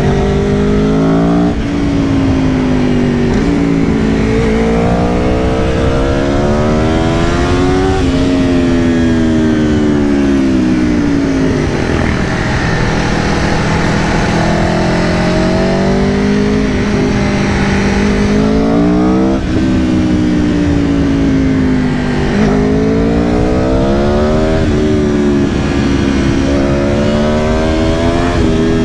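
A 2022 Aprilia Tuono V4 Factory's V4 engine under way: the pitch climbs and drops sharply at several upshifts, and in the middle the engine rolls off and winds down gradually before pulling again.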